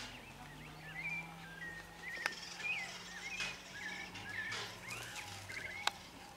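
Several wild birds chirping and calling in short whistled notes throughout, with two sharp clicks, one about two seconds in and one near the end.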